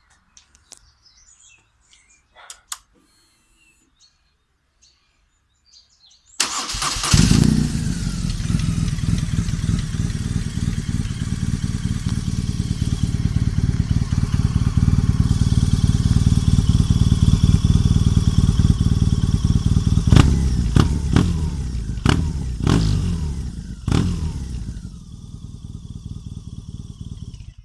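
BMW R 1200 R boxer-twin motorcycle engine with a Dominator aftermarket exhaust, started after a few faint clicks, idling with a deep, even exhaust note, then given five quick throttle blips. It settles back to a quieter idle and is switched off, stopping suddenly.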